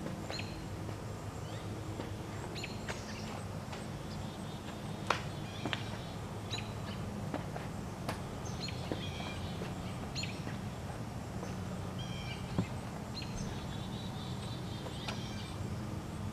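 Songbirds chirping, short high falling calls every second or so, over a steady low hum, with a few sharp clicks.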